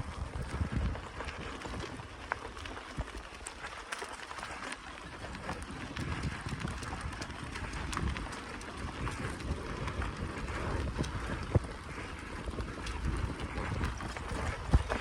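Wind buffeting the microphone on a moving bicycle, a gusty low rumble, with scattered small clicks and crackles over a steady hiss.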